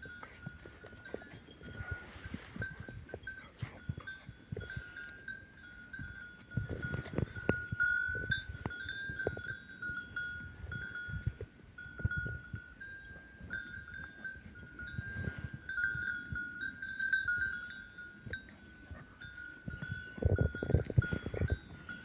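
A steady, slightly wavering ringing, like livestock bells, continues throughout, with irregular low thumps and scuffling that come in clusters, heaviest near the middle and near the end.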